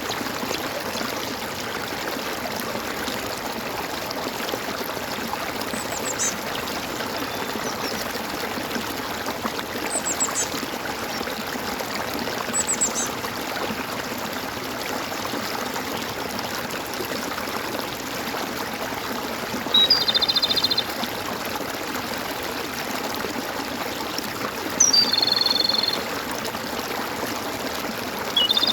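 Water gurgling and flowing steadily, as in a small stream, with birds calling over it: a few brief high chirps, then a louder buzzy call lasting about a second, heard twice in the second half.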